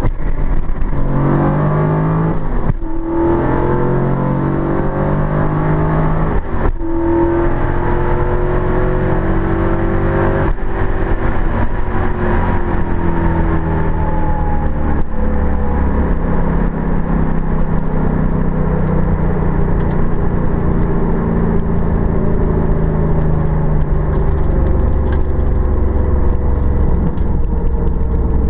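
A 1995 Pontiac Trans Am's 383 stroker LT1 V8 at full throttle down a quarter-mile drag strip, heard from inside the cabin. The revs climb and break off at several gear shifts in the first half, with the throttle pedaled in first and second gear as the street tires lose traction. The engine note then falls steadily as the car slows.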